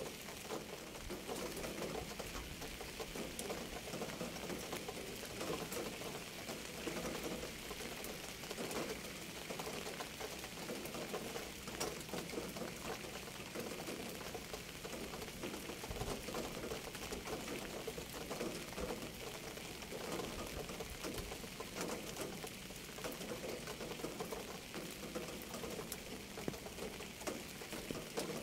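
Steady rain falling on surfaces, a dense, even patter of many small drops with no let-up.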